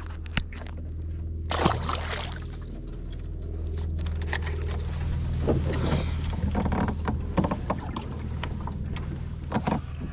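Kayak on the water: scattered light knocks and short watery swishes over a steady low hum.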